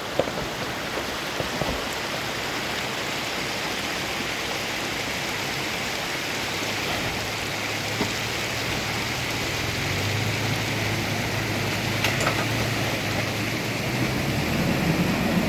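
Steady rush of flowing creek water. About halfway through, a low, steady engine note comes in and grows louder, with a rising, revving sound near the end: a dual-sport motorcycle approaching through the creek crossing.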